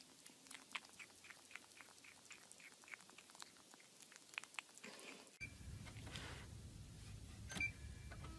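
Faint, regular crunching clicks, about three a second, of a pet chewing food. A cut about five seconds in brings a low hum with a brief rustle and one sharp click.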